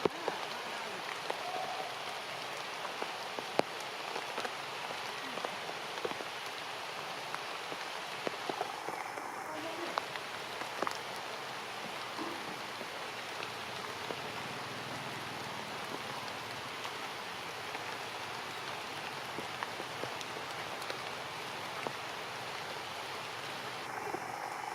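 Steady rain falling, with many small drop impacts ticking through the steady hiss.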